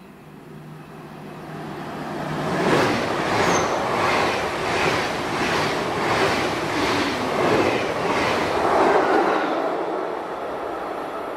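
Electric double-deck passenger train passing at speed: it swells in, then its wheels clatter over the rails in an even beat of about one and a half strokes a second as the coaches go by, and it fades away near the end.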